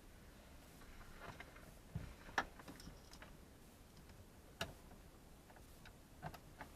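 Scattered light clicks and knocks of plastic dash trim and screws being handled and fitted. The sharpest clicks come about two and a half seconds in and again just before five seconds.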